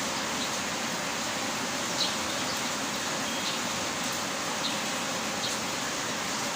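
Heavy rain falling, a steady even hiss with scattered sharper drop ticks, one a little louder about two seconds in.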